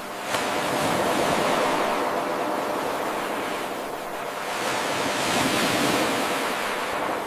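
Ocean waves washing ashore: two swells of surf with a lull between them. The rush rises abruptly about a third of a second in, where the eight-second loop restarts.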